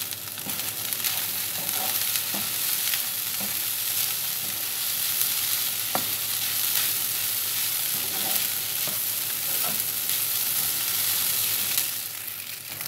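Shredded chicken with onion, bell pepper and spices sizzling in a little oil in a frying pan while a wooden spatula stirs and scrapes it, with light, scattered knocks of the spatula against the pan. The sizzle eases off near the end.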